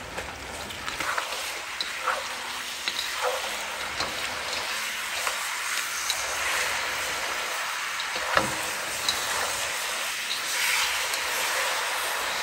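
Fried chicken pieces being tossed in a wok of sizzling reduced fish sauce and garlic: a steady sizzle with scattered light clicks of chopsticks and a wooden spatula against the wok, and one sharper knock about eight seconds in.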